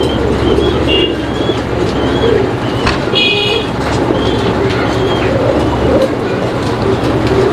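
Caged fancy pigeons cooing together, a dense warbling murmur, over a steady low rumble. A few short, high chirps from small birds come through, the clearest a little after three seconds in.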